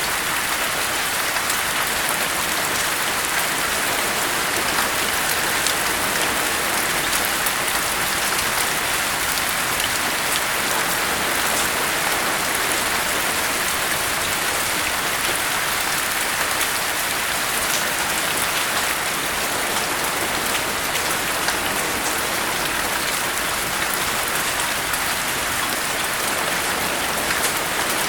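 Steady heavy rain falling on a surface, a dense even hiss with fine scattered drop ticks throughout.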